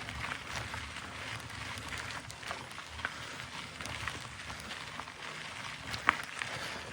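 Trek mountain bike rolling on a dirt woodland trail: a steady crackle of tyre noise with scattered small clicks and rattles, the sharpest click about six seconds in.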